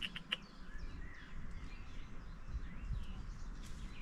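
Songbirds chirping and calling in woodland, with two sharp clicks near the start and a low steady rumble underneath.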